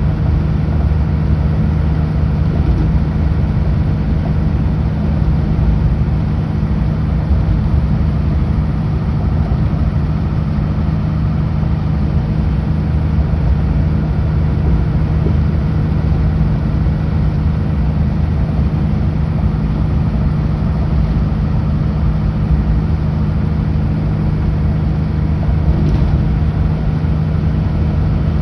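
Kenworth W900L semi truck's diesel engine running steadily at highway speed, a constant low drone with road noise and no change in pitch.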